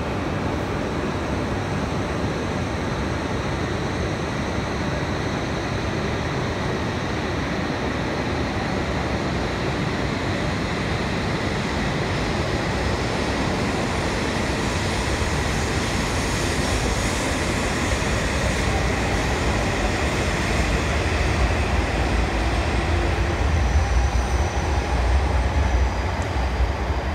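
E5 series Shinkansen pulling out of the station and gathering speed past the platform. Its steady running noise grows gradually louder, with a deeper rumble in the last several seconds as the end car goes by.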